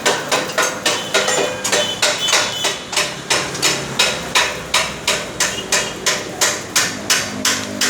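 Hammer blows on metal in a steady rhythm, about three strikes a second.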